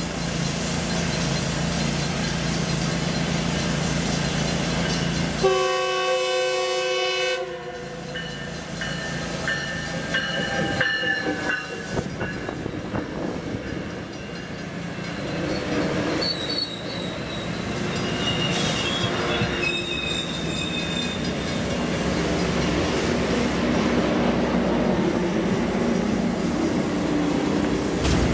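Metrolink commuter train passing close by: its multi-tone horn sounds once for about two seconds, about five seconds in, then the bilevel cars run past with wheel clatter and brief high wheel squeals in the middle. The rumble swells near the end as the diesel locomotive pushing at the rear draws level.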